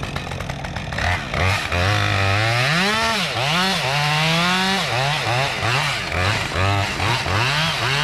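Two-stroke chainsaw running at a low steady speed, then throttled up about a second in and cutting into wood. Its engine pitch rises and dips again and again as it loads up in the cut.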